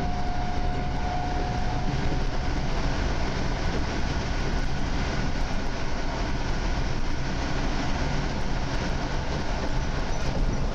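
EN57AKM electric multiple unit heard from inside a carriage, running on the rails while accelerating: a steady rumble of wheels and running gear, with a high whine that fades out about two seconds in.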